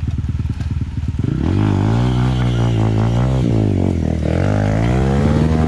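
Dirt bike engine idling with an even beat, then revved up about a second and a half in and held. The revs dip near four seconds and climb again.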